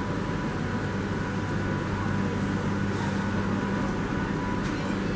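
Steady low hum of a train at the station, even throughout, with a few faint clicks.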